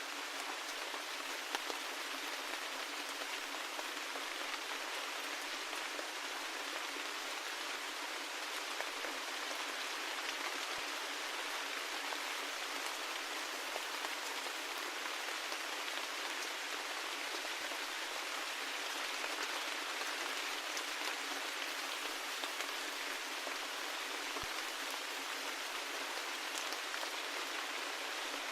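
Steady rain: an even hiss with scattered ticks of individual drops, and no low rumble.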